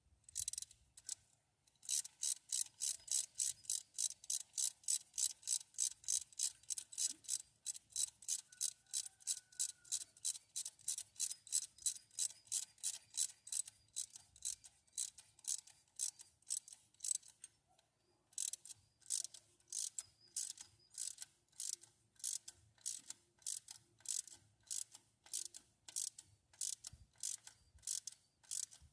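Hand ratchet wrench clicking in an even rhythm, about three clicks a second, as a fastener is turned; it stops briefly about eighteen seconds in, then carries on.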